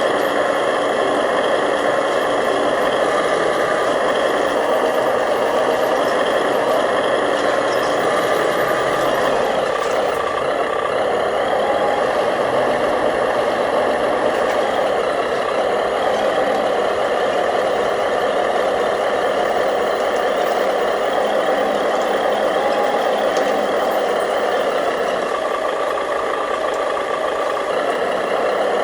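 Remote-control scale construction machines (bulldozer and dump trucks) running steadily, an unbroken engine-like mechanical drone with no pauses or sharp knocks.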